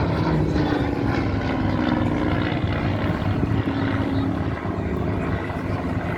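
Hawker Hurricane's Rolls-Royce Merlin V12 engine running as the fighter flies past, a steady drone whose pitch falls slowly over the first few seconds.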